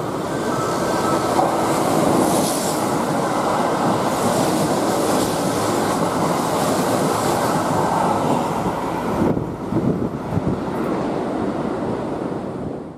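Kintetsu limited express electric train passing through a station at speed without stopping: a loud, steady rush of wheels on rail and air. About nine seconds in the rush thins as the tail passes, with a few clacks of wheels over rail joints before it fades.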